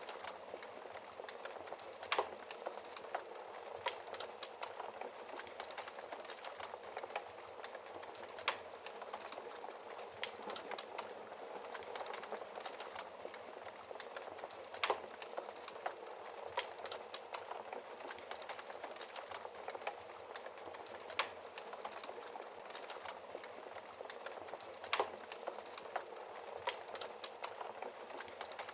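Wood fire crackling steadily in a fireplace, with a dense patter of small crackles and now and then a sharper pop.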